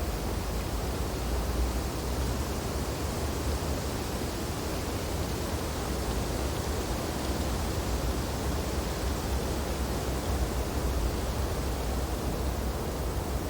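Steady wind blowing through tree branches in snowfall: an even rushing with a strong low rumble, no gusts or separate sounds standing out.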